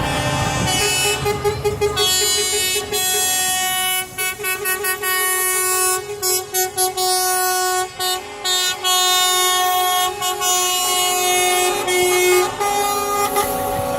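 Truck air horns blowing repeatedly, several horns at different pitches overlapping in long blasts and bursts of quick short toots, over a low engine rumble at the start.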